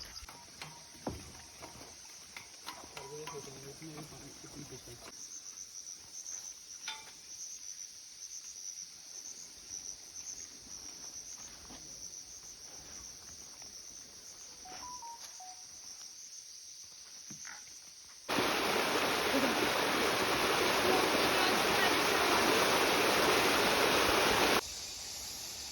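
Forest insects, crickets or cicadas, trilling steadily and high-pitched, with a few faint clicks. About eighteen seconds in, a sudden cut to the loud, steady rush of a waterfall, lasting about six seconds before it cuts away.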